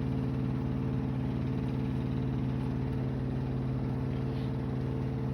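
Steady electric hum at a fixed pitch, like a small motor or appliance running.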